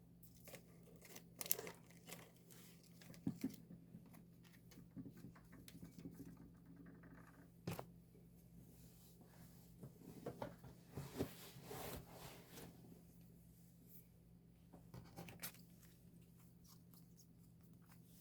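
Faint handling of a K-pop album's paper and plastic packaging: scattered rustling, crinkling and tearing with small clicks, busiest about ten to thirteen seconds in. A low, steady electrical hum runs underneath.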